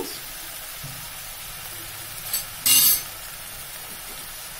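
Onion and ginger-garlic masala paste sizzling steadily in hot oil in a karahi. About two and a half seconds in there is a short, loud scrape of a metal spoon against the pan.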